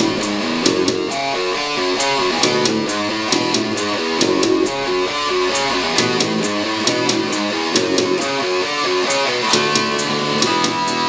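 Heavy metal music: a distorted electric guitar riff over bass guitar and drums, with regular sharp drum and cymbal hits.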